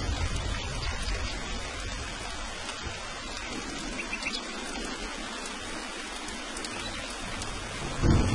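Steady rain falling, an even hiss with scattered drop ticks. A low rumble fades out over the first few seconds, and a sudden louder low rumble breaks in near the end.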